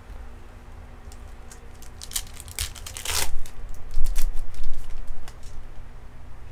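Trading cards and their pack wrapper being handled on a table: scattered clicks of cards, a louder crinkling burst about three seconds in, then a few dull bumps.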